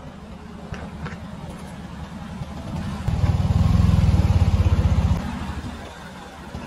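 A car engine running close by, swelling about three seconds in, loudest for about two seconds, then dropping away, as a car passes.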